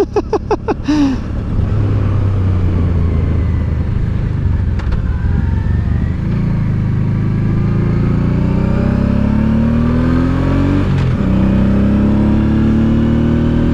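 Honda Deauville's 650 cc V-twin engine pulling hard up a steep climb at almost full power, its pitch rising as the revs build. The pitch drops at a gear change about eleven seconds in, then climbs again.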